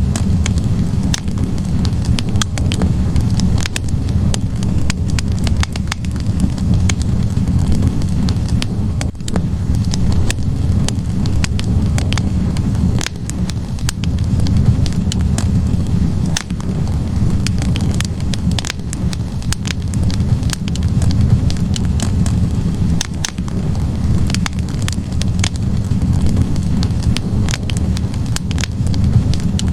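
Wood fire burning in a fireplace: logs crackling and popping irregularly over a steady low rumble of flames.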